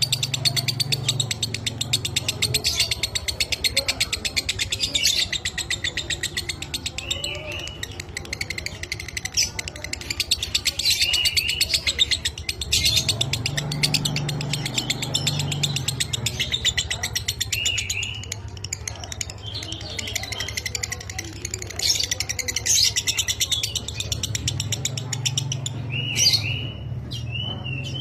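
A lovebird's long, rapid chattering trill (the 'ngekek' song) runs on almost without a break, with short looping chirps every few seconds.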